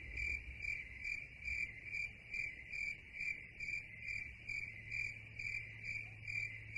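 Crickets chirping: a steady high trill that pulses about two to three times a second.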